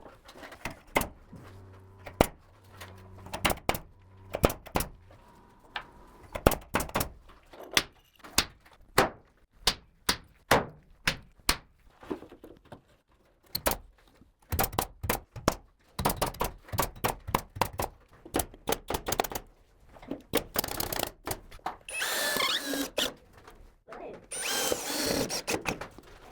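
Carpentry work on ceiling framing: a long run of sharp knocks, about one or two a second, then three short bursts of harsh power-tool noise near the end.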